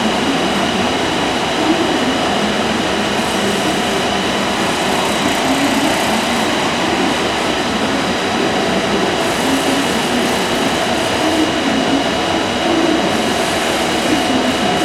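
The drive of a custom elevator lift built onto a John Deere tractor, running steadily as the platform travels down: a constant whine with a few steady high tones over a noisy hum.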